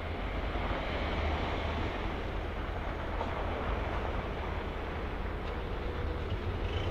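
Electric multiple-unit train approaching slowly along the tracks: a steady low rumble and rolling hiss of wheels on rail.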